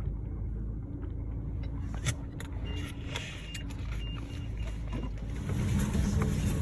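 Steady road and engine rumble inside a moving car's cabin, with a few light clicks and a faint high beep coming and going partway through.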